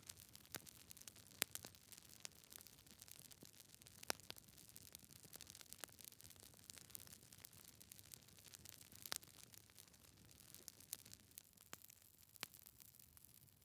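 Log fire burning quietly in a fireplace, with a soft hiss and irregular sharp crackles and pops from the wood, a few of them louder.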